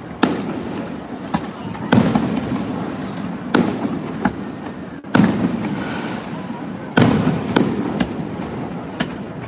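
Aerial fireworks bursting overhead: a sharp bang every second or so, each trailing into a rolling rumble, with the loudest bursts about two, five and seven seconds in.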